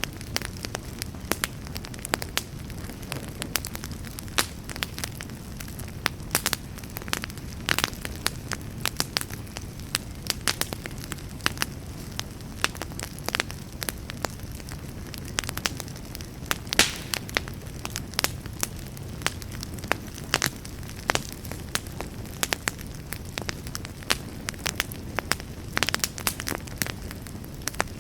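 Wood fire burning with dense, irregular crackles and pops over a steady low rumble.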